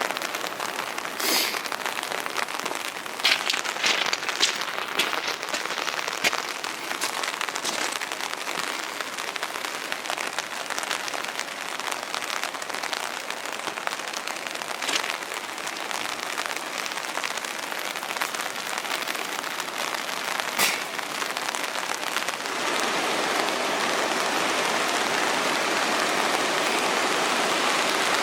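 A steady hiss of water with a few scattered sharp taps, growing louder and fuller about 22 seconds in.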